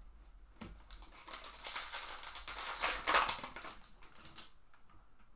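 Foil trading-card pack wrapper crinkling as it is torn open and handled, a dense rustle lasting about three seconds and loudest around the middle.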